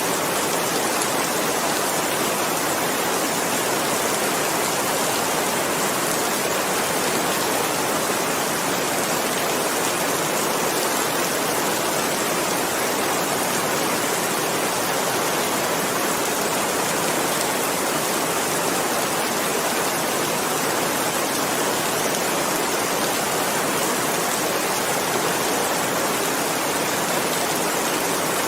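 Steady, even rain hiss: continuous heavy rainfall with no separate drops or gaps.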